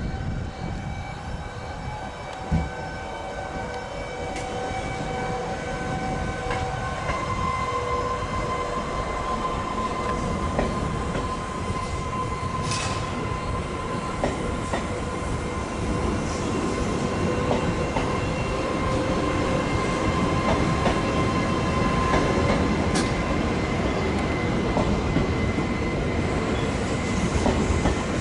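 Train running through a station, growing louder. A steady whine steps up in pitch about a quarter of the way in, over wheels rumbling and clicking on the rails, with a few sharp clicks.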